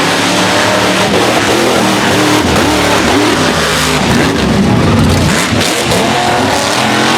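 Supercharged mega truck engines racing at high revs, their pitch rising and falling repeatedly as the drivers work the throttle through the mud course.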